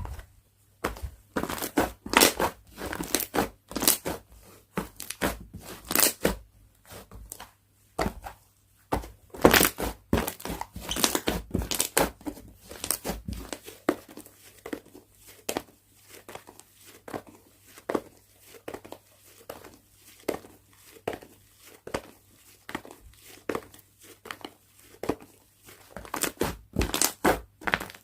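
Slime being squeezed, stretched and pressed by hand, giving irregular sticky crackles and pops, louder in several bursts of handling.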